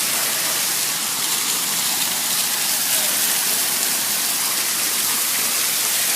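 Small waterfall: water falling and splashing in a steady rush.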